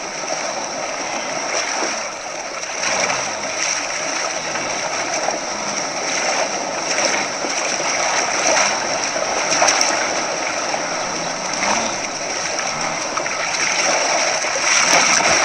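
Continuous splashing and churning of river water as a dense herd of wildebeest struggles in the river against a steep bank, a thick, unbroken wash of sound over a steady high hiss.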